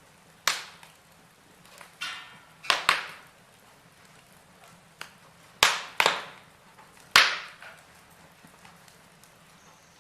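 Logs burning in a fireplace, crackling with about seven sharp, irregular pops and snaps, some coming in quick pairs, over a faint steady low hum.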